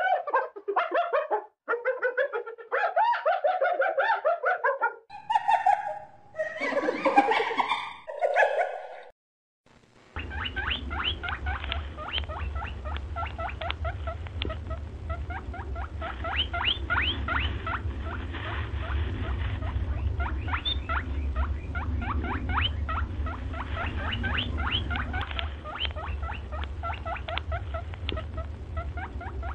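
Recorded animal calls: for about nine seconds a series of pitched calls, then after a short break a different animal giving rapid, repeated high squeaks over a steady low hum.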